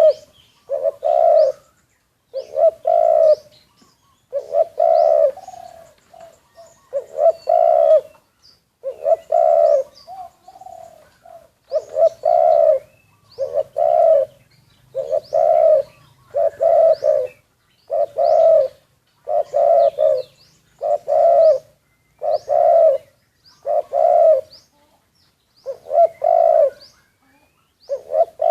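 Spotted dove cooing over and over, low coos repeating about every second to second and a half in a steady run, with faint high chirps from smaller birds in the background.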